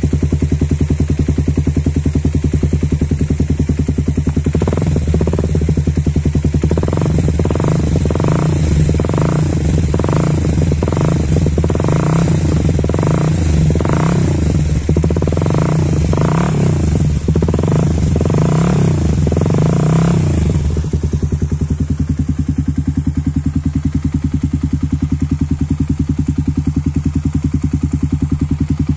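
Honda CB150R's 150 cc single-cylinder engine through a DOS Muffler full-system exhaust, idling steadily, then from about five seconds in given a string of light throttle blips, about one and a half a second, for some fifteen seconds before settling back to idle.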